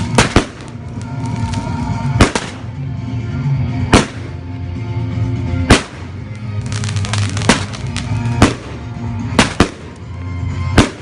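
Fireworks going off: sharp bangs every second or two, with stretches of fast crackling between them.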